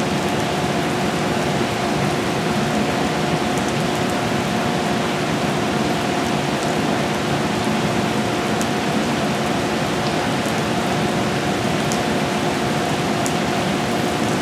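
Steady rain falling on the platform and the standing train, with scattered drip ticks and a steady low hum underneath.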